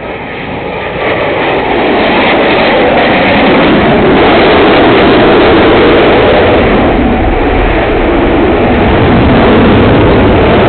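Jet roar of a Hornet fighter's twin turbofan engines as it flies past, building over the first two seconds, then loud and steady.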